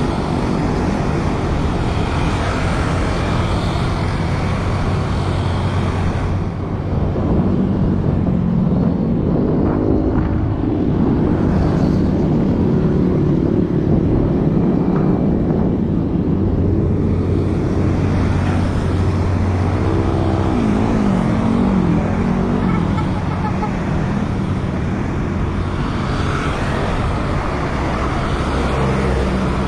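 A running engine with a steady low hum, its pitch sliding up and down briefly about twenty seconds in.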